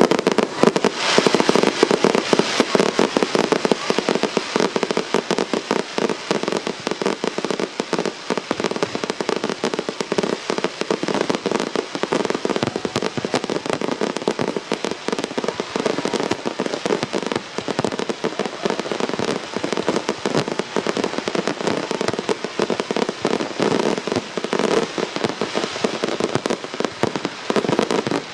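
Fireworks going off in a dense, unbroken barrage of rapid bangs and crackles, many reports a second.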